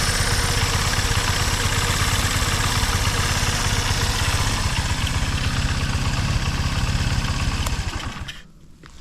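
Honda Ape 100's small single-cylinder four-stroke engine idling steadily, running evenly with no abnormal noise. About eight seconds in it cuts out and dies away, and a few light clicks follow.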